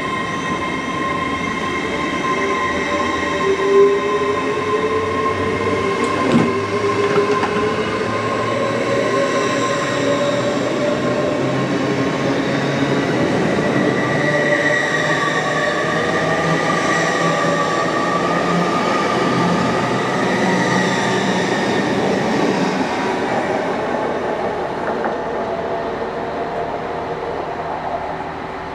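Train running through the station: a steady multi-tone whine, one tone slowly climbing in pitch over several seconds, with two sharp knocks about four and six seconds in. The sound eases off near the end.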